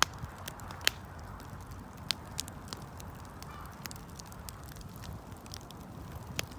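Wood fire burning with a steady low rumble and irregular sharp crackles and pops, a few louder snaps near the start and about a second in.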